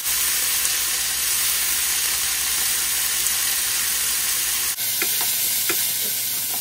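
Pieces of raw chicken sizzling in hot oil in a small frying pan, a steady hiss. Near the end a wooden spatula stirs them, with a couple of light taps against the pan.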